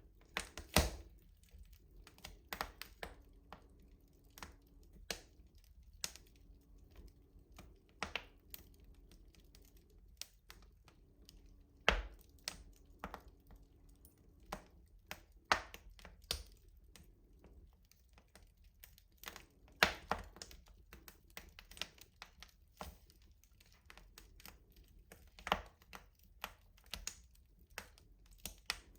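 Wood fire crackling inside a traditional rustic stove: irregular sharp pops and snaps at uneven intervals, a few louder than the rest.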